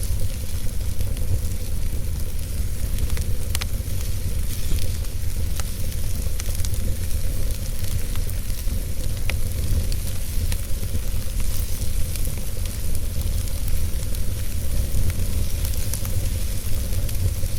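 Wood fire burning in a fireplace: a steady low rumble and hiss of the flames, with scattered small crackles and pops from the logs.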